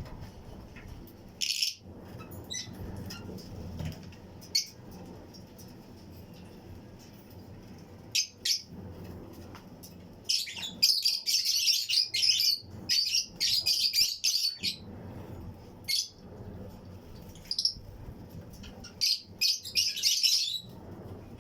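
A colony of Fischer's and lutino lovebirds chirping in short, high, shrill calls, scattered at first, then a long run of rapid chirping about halfway through and another burst near the end.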